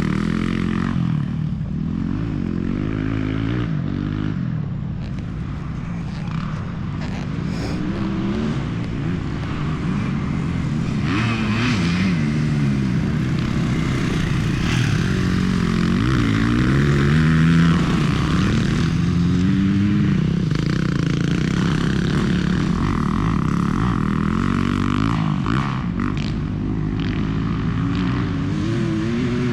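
Motocross dirt bike engine ridden hard around a track, its pitch rising and falling over and over as the throttle opens and shuts, with wind and rough noise over it.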